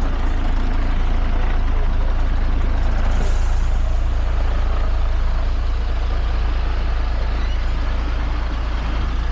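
Heavy truck engine running steadily with a low rumble, with a hiss of air, like an air brake, starting about three seconds in.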